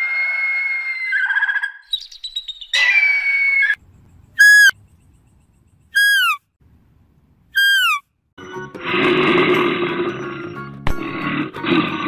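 Bird calls: a run of high, held cries, then three short calls that each fall sharply in pitch, about a second and a half apart. About two-thirds of the way in, a denser, noisier sound takes over.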